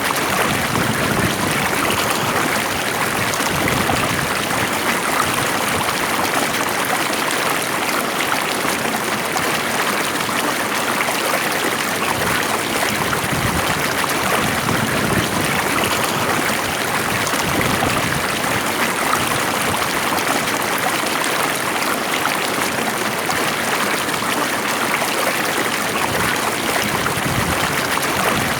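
Stream water flowing steadily over rocks, a continuous even rush with fine trickling and gurgling.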